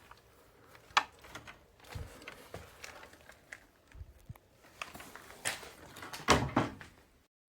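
Scattered knocks, bumps and clicks in a small room, with a sharp click about a second in and the loudest cluster of knocks just before the end, then an abrupt drop to near silence.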